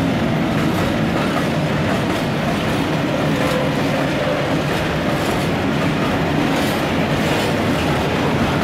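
Freight wagons rolling past with a steady rumble of steel wheels on rail, broken by clicks as the wheels cross rail joints.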